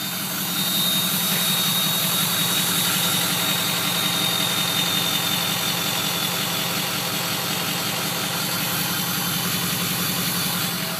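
2004 Ford 6.0L Powerstroke turbo-diesel V8 running steadily at idle through a 4-inch exhaust with the diesel particulate filter and muffler removed. A thin high whistle sits over it and fades out about halfway through.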